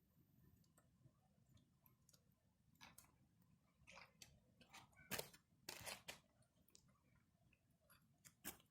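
Campfire crackling softly: scattered sharp snaps and pops of burning wood, a few louder pops about five to six seconds in and again near the end.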